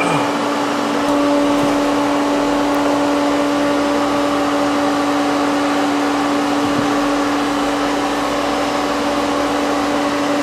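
Bee vacuum running steadily, its motor giving an even hum over a rush of air as it draws honeybees up the hose.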